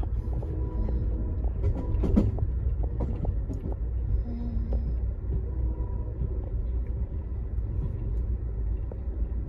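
Steady low rumble of a moving vehicle heard from inside, with faint scattered clicks and rattles.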